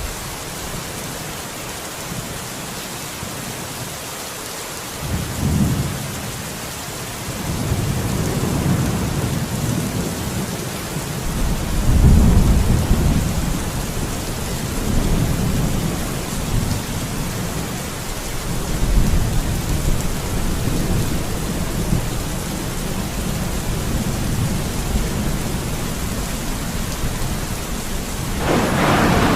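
Steady heavy rain with rolling thunder. A short rumble comes about five seconds in, then long low rolls build from about seven seconds, loudest around twelve seconds and again near nineteen. A sharper, closer thunderclap breaks near the end.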